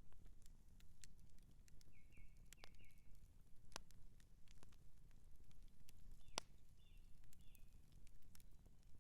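Outdoor campfire crackling faintly, with scattered sharp pops over a low steady rumble; two pops stand out, about four and six and a half seconds in. A bird chirps a few short notes around two seconds in and again after six seconds.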